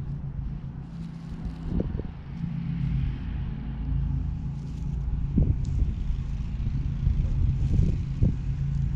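Steady low rumble of a running vehicle, with a few soft thumps about two, five and a half and eight seconds in.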